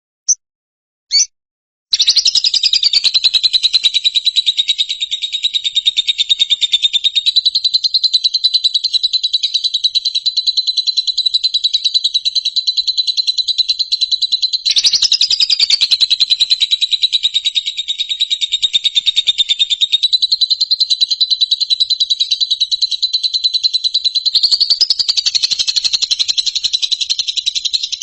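Recorded bird song: a few short separate chirps, then from about two seconds in a fast, unbroken high trill that runs on, briefly rising in pitch near the middle and again near the end.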